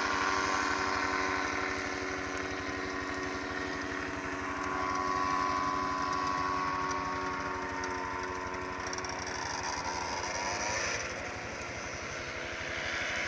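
Engine of a passing aircraft droning steadily, swelling and fading in loudness as it flies by.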